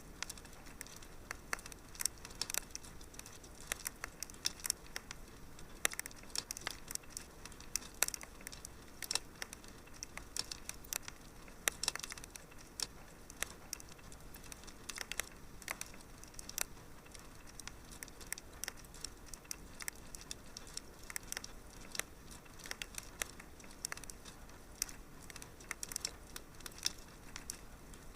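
Wood fire burning in a fireplace: a soft steady hiss with frequent sharp irregular crackles and pops.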